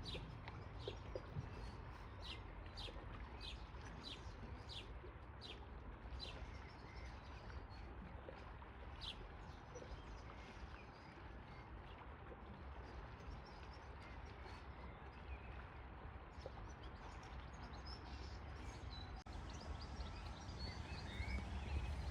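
A bird calling: a run of short, high, falling chirps repeated every half-second or so through the first nine seconds, then only a few faint chirps, over a steady low outdoor background.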